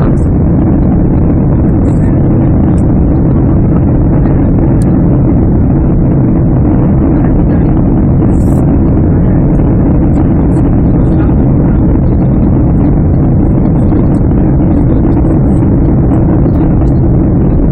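Boeing 767-300 cabin noise: its jet engines and rushing air make a steady, unchanging low rumble.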